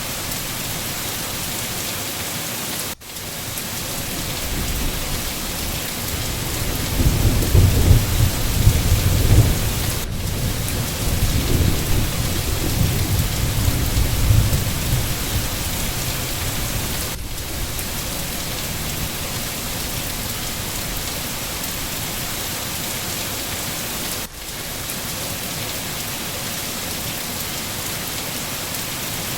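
Steady, heavy rain falling, with a low roll of thunder rumbling from about seven seconds in for several seconds. The rain sound briefly drops out twice.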